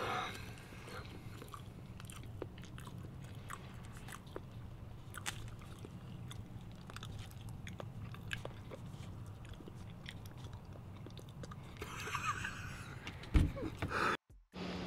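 People chewing and biting into fish sandwiches: faint mouth clicks and chewing noises scattered over a low steady hum, with a short louder stretch near the end.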